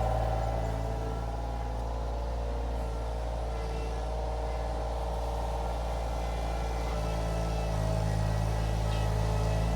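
Iron Rhino IR1200 mini skid steer's engine running steadily while it works a power rake, growing a little louder near the end.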